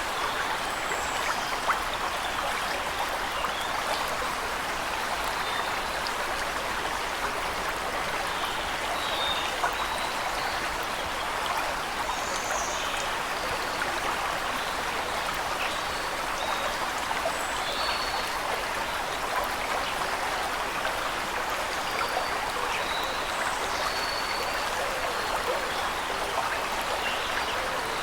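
Waterfall water falling and splashing in a steady, even rush, with short high bird chirps scattered through it.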